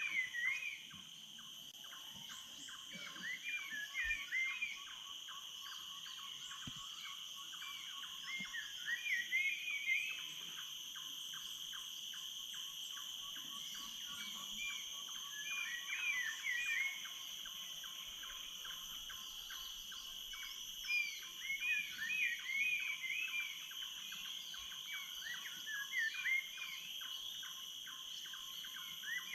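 Tropical rainforest dawn chorus: a bird repeats short curling, warbling phrases in bursts every few seconds. Underneath is a steady, high insect drone at several pitches and a fast, even ticking.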